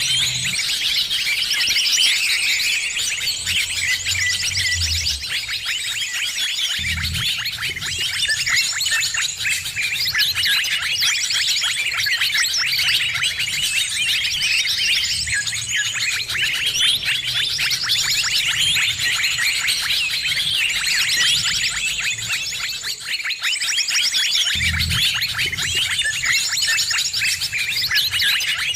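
Noisy chorus of many small birds chirping and twittering rapidly over one another without a break: a 'ribut' (agitated, noisy) bird-sound recording played as a lure to draw in birds. A thin, high, steady note comes and goes over it.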